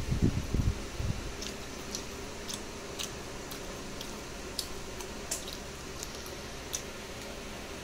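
Close-up chewing of biko, sticky rice cake: wet mouth clicks and smacks every second or so, with heavier low thumps in the first second, over a steady background hum.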